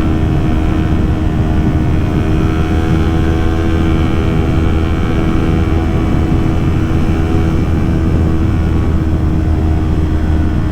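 Kawasaki Ninja 400 parallel-twin motorcycle engine running at a steady speed while riding, its note holding level with no revving, over a rush of wind and road noise.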